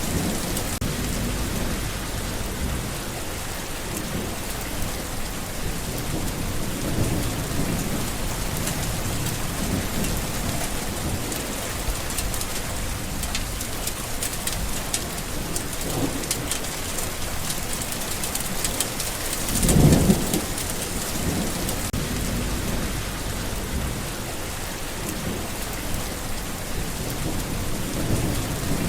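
Steady rain falling, with low rumbles swelling now and then; the loudest comes about twenty seconds in.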